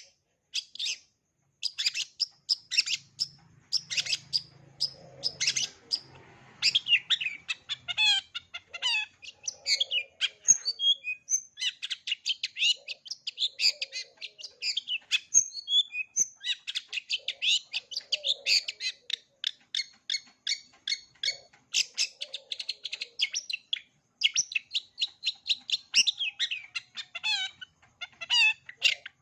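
Long-tailed shrike (cendet) singing a fast, nearly unbroken song of sharp high notes and rapid rattling trills, strung with mimicked phrases of other birds, with only brief pauses.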